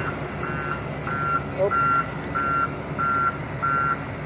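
Heavy machinery's reversing alarm beeping evenly, about three beeps every two seconds, over a diesel engine running, as the machines work to pull a truck out of a paddy.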